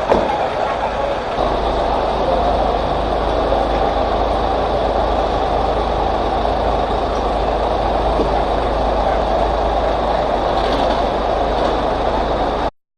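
Steady loud engine rumble with rushing noise, typical of fire trucks running their engines and pumps, cutting off suddenly near the end.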